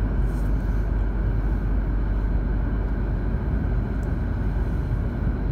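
Cabin running noise of an E2 series Shinkansen train pulling into a station: a steady low rumble and hum of the wheels and running gear.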